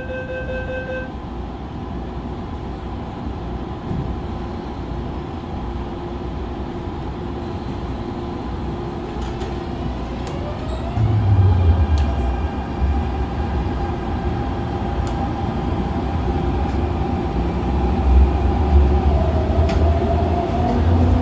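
MTR Tung Chung line CAF-built electric train running, with steady rail and running noise. About ten seconds in, its traction motors give a whine that climbs in pitch as the train accelerates, then holds steady and drops a step near the end.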